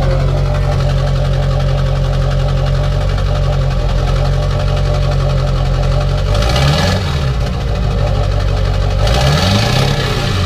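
Diesel truck engine running with its exhaust removed, straight-piped with no muffler: a loud, steady idle, revved briefly twice, about six seconds in and again near the end.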